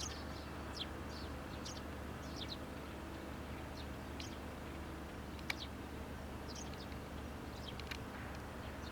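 Small birds giving short, high chirps every second or so over a steady low hum. There is one sharp click about five and a half seconds in.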